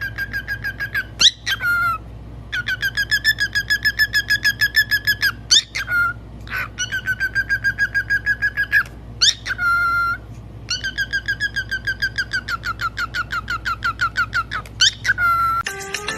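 Pet parrot whistling long, fast trills at a steady pitch, about seven warbles a second, in four runs broken by short rising whistles.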